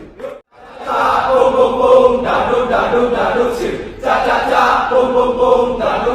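Kecak chant: a male chorus chanting and singing long held notes in unison. There is a short break just after the start and another brief pause about four seconds in.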